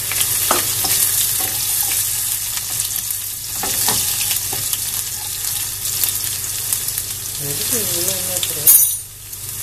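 Chopped garlic and dried red chillies sizzling in hot groundnut oil in a steel pot, the tempering for a dish, while a wooden spatula stirs them with occasional knocks and scrapes against the pot. A brief louder noise comes just before the end.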